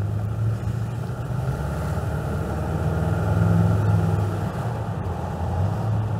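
A 1975 Chevrolet Corvette's V8 running steadily while cruising, heard from the open cockpit with the top down. The engine note swells slightly about three to four seconds in.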